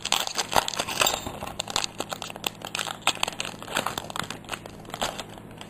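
Crinkling of a foil Pokémon booster-pack wrapper being torn open and handled, a dense run of small sharp crackles.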